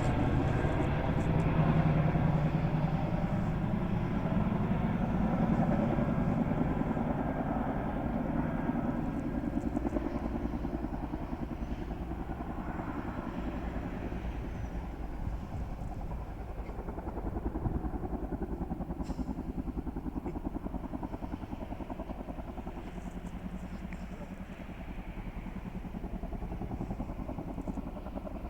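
Boeing CH-47 Chinook tandem-rotor helicopter running with a steady drone and rapid rotor pulsing, growing gradually fainter as it moves away.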